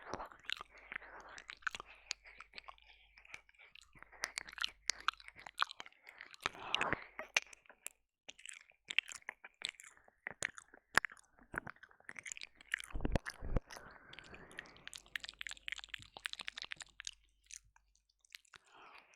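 Close-up wet mouth sounds at a binaural ear microphone: licking, smacking and small sticky clicks in an irregular stream. A low thud comes about two-thirds of the way through.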